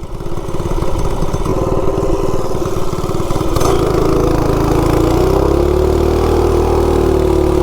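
Coleman 196cc single-cylinder engine with a header pipe idling with a pulsing beat. About three and a half seconds in the throttle opens and it goes to a steady high rev as the minibike launches from a standstill.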